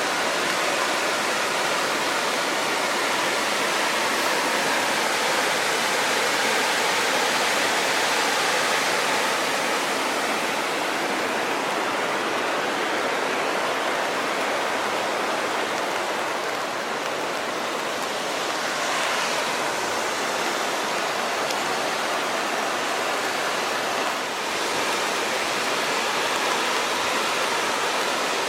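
A fast creek rushing, a steady, full water noise that is really loud.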